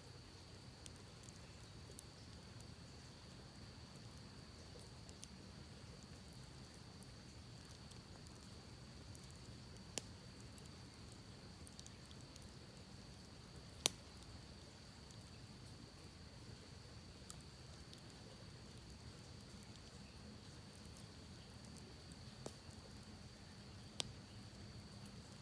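Campfire crackling faintly, with a few scattered sharp pops, the loudest about fourteen seconds in, over a steady low rush and a thin, steady high-pitched hum.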